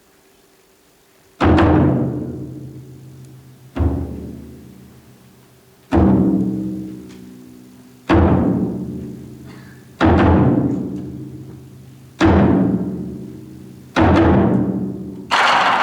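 Large taiko drum struck singly, seven slow strikes about two seconds apart, each ringing out and fading before the next. Just before the end a brighter crash with a lasting hiss comes in.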